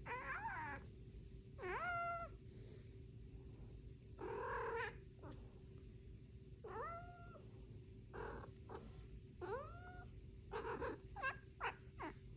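A domestic cat meowing over and over: about six separate, drawn-out calls that rise then fall in pitch, with a few shorter chirping calls near the end.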